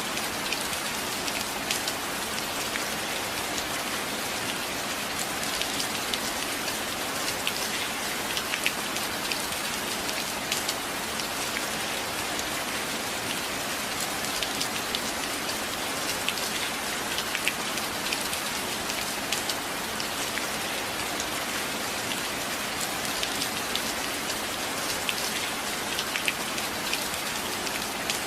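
Steady rain falling, an even hiss with many individual drops ticking sharply on a hard surface throughout.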